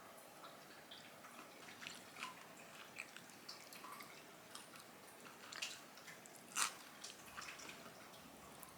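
Faint, scattered wet clicks and squishes of food, with one sharper click about six and a half seconds in.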